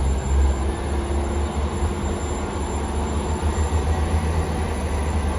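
Passenger train pulling out of the platform, a steady low rumble as it moves off.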